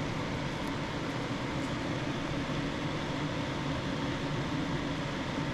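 Steady hum and hiss of a running fan, unchanging throughout.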